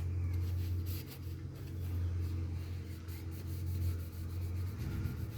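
Cloth rag rubbing along a steel knife blade, wiping off a thin coat of oil, as soft scratchy strokes over a steady low hum.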